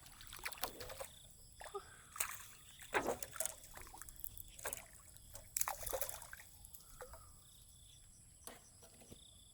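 Water sloshing and splashing in irregular bursts, loudest about three seconds in and again near six seconds, then settling.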